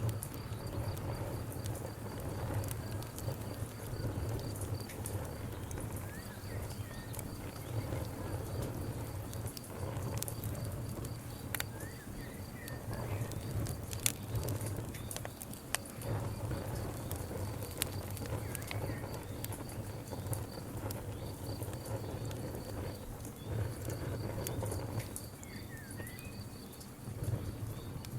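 Wood campfire crackling, with irregular sharp pops and snaps over a low steady rumble of the flames.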